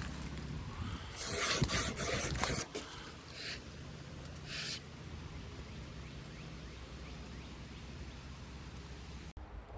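A few crunching, scraping footsteps or rubs in the first five seconds, over a low steady rumble.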